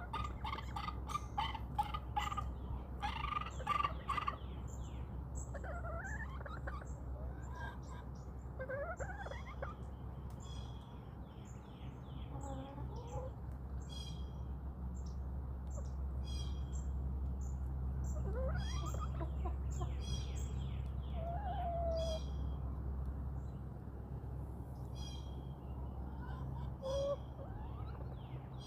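Backyard chickens clucking in quick runs of calls for the first few seconds, then giving scattered drawn-out calls, while small wild birds chirp high above them. A steady low hum runs underneath.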